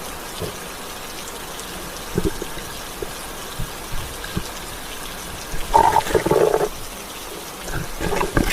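Steady rain falling, a continuous wash of water noise, with a few soft knocks and a short louder burst of sound about six seconds in.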